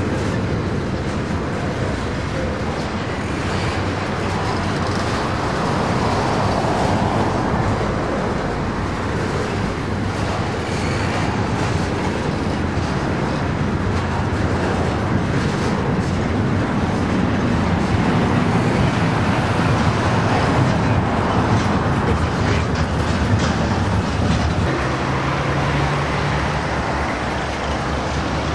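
Freight train rolling past: the steady noise of its cars' wheels on the rails, with scattered light clicks and a low hum underneath.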